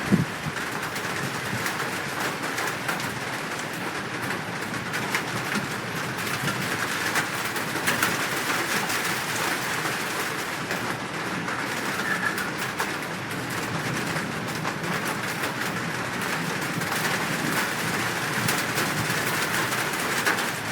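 Steady rain falling, a continuous hiss scattered with sharp drop ticks, with birds calling through it.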